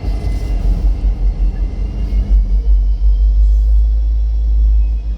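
Freight train passing a grade crossing: a continuous deep rumble of diesel locomotives and rolling cars, with faint thin high tones above it.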